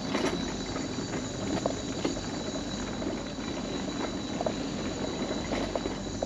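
Mobility scooter rolling along a wooden boardwalk: a steady rumble of the wheels on the planks, with irregular knocks as they cross the joints.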